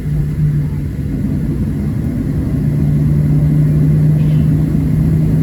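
Cabin noise of a Boeing 737-700 taxiing, its CFM56-7B engines at low thrust: a steady low rumble with a constant hum, growing slightly louder about two seconds in.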